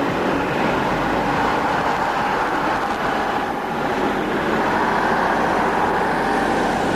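Heavy Ural off-road truck driving, a steady run of engine and road noise.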